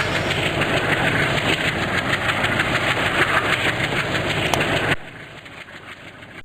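Train running on the rails, a steady loud rumble with a fast rattling texture. About five seconds in it drops suddenly to a much quieter hum.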